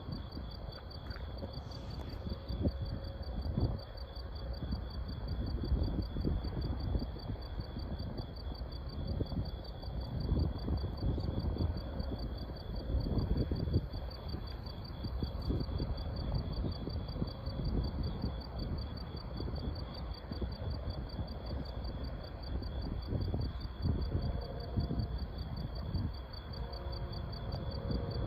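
Night insect chorus, a steady fast-pulsing trill in two high bands, over an irregular low rumble. Faint steady tones come in near the end.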